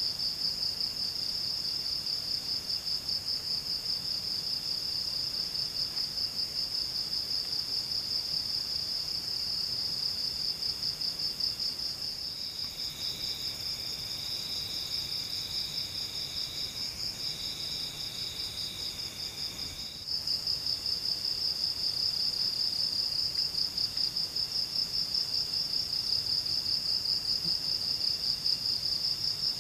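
Forest insects trilling in a steady, high, fast-pulsing drone. About twelve seconds in, a second, lower insect trill joins with a short break in the middle, then cuts off abruptly about eight seconds later.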